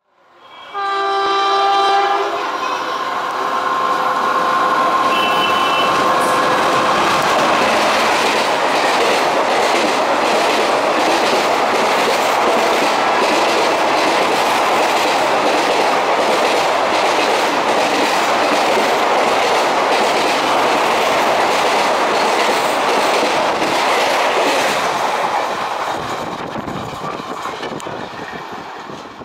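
A WAP-4E electric locomotive's horn sounds briefly about a second in. Then the express train's coaches run past at speed with a steady rush and rhythmic wheel clatter over the rail joints, fading near the end as the train moves away.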